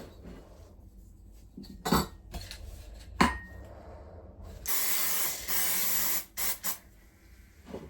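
Aerosol spray can spraying in two long bursts of hiss, then two short puffs. Before that come two sharp metallic clinks, the second one ringing briefly.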